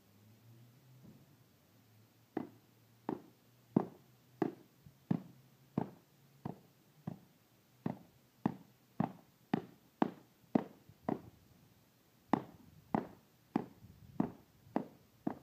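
A hand tamper striking concrete stamping mats: a steady run of sharp thuds, about one and a half a second, starting about two seconds in.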